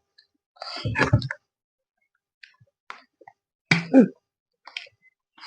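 Eating sounds at a meal: a few scattered mouth smacks, clicks and small plops from chewing and utensils, with short louder bursts about a second in and again near four seconds.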